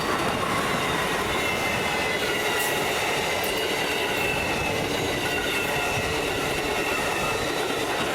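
Amtrak passenger train rolling past at close range, wheels running on the rails with a steady rumble and a thin, high wheel squeal that drifts slowly down in pitch.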